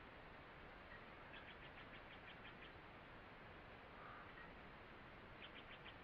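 Faint forest ambience: a steady low hiss with a small bird giving a rapid series of short high notes, about eight a second, for about a second. The series begins about a second in and comes again near the end.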